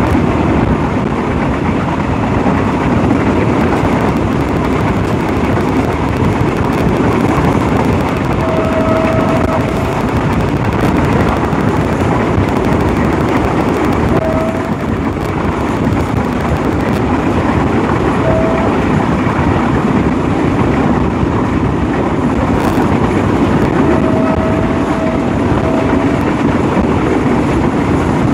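Diesel locomotive running along the line at speed, heard from right beside its cab: a loud, steady rumble of engine and wheels on rail. A few brief high tones sound over it, around a third of the way in, at the middle and again near the end.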